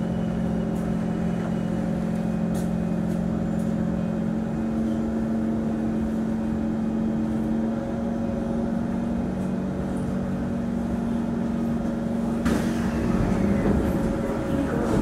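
Inside a Singapore MRT train carriage: the train's steady low electrical hum over continuous running noise, which grows louder and rougher about twelve and a half seconds in.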